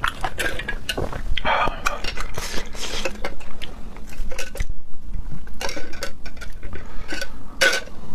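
Close-miked eating: an irregular run of clicks and clinks of tableware on dishes, mixed with chewing, with one sharper clink near the end.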